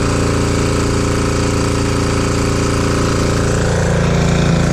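196cc 168F single-cylinder air-cooled diesel engine driving a generator, running steadily at constant speed under load during a maximum-load test.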